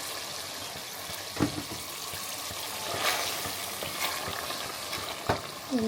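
Spiced curry masala sizzling in hot oil in a pan while it is stirred, with two sharp knocks about a second and a half in and near the end.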